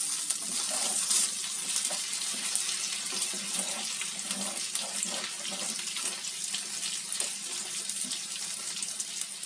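Sliced potatoes and onions sizzling in butter in a frying pan, a steady crackling hiss, with a wooden spatula stirring and scraping through them. The potatoes are close to done.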